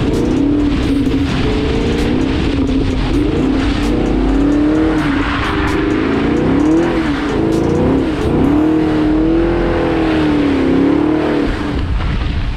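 Chevrolet Camaro SS 1LE's 6.2-litre V8 revving, its pitch rising and falling again and again as the rear tyres spin the car in donuts on wet pavement, with a hiss of tyre spray underneath.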